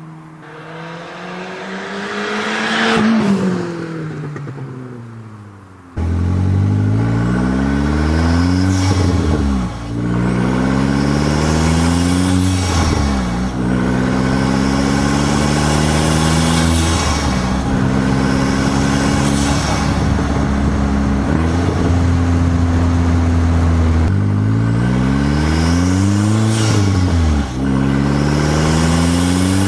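Turbocharged 1.8T inline-four of a VW Jetta running through an open downpipe cutout. First it revs up and falls away, loudest about three seconds in. Then a louder stretch begins suddenly: the engine climbs in pitch again and again, each climb cut off by a sharp drop, as when accelerating up through the gears.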